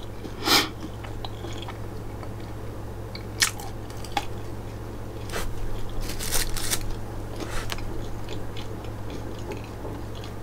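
Close-up chewing of homemade naan-bread pizza, with a few sharp bites scattered through and a busier run of them about six seconds in.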